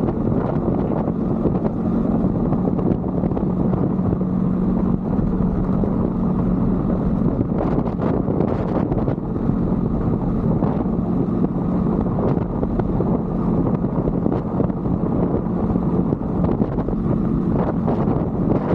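A 125cc Brixton motorbike's single-cylinder engine running steadily under way, with wind buffeting the microphone.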